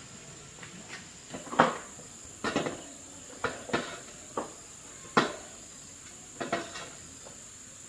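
A series of about eight sharp knocks and clicks at uneven intervals, as of hard objects or tools being handled and set down, over a steady high-pitched hum.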